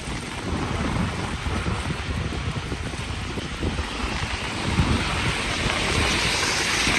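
Wind buffeting the microphone while riding an electric bike, a gusty low rumble with a steady hiss that grows louder in the second half.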